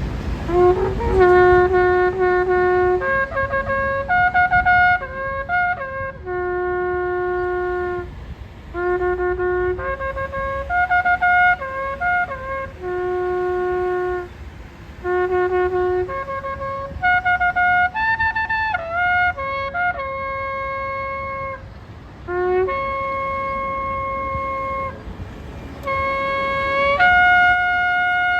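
Shofar, a ram's-horn trumpet, blown in a long series of held blasts that jump between a few pitches, with short breaks and occasional upward slides between notes.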